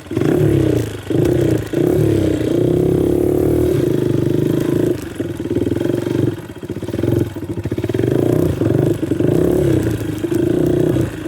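Pit bike engine running under way, its note rising and falling as the throttle is worked, with several short drops in loudness where the throttle comes off.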